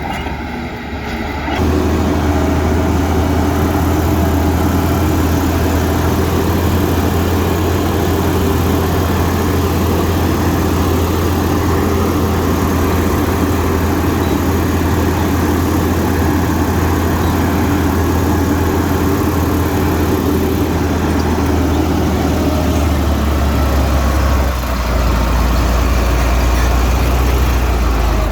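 Heavy diesel engine of earthmoving machinery running steadily with a deep, even drone. A little under 2 s in it gets louder, and about 24 s in its pitch drops lower.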